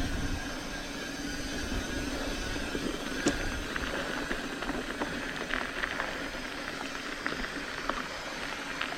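Mountain bike rolling along a dirt trail: steady tyre and drivetrain noise with scattered sharp clicks and rattles from the bike over the bumps, mostly in the second half.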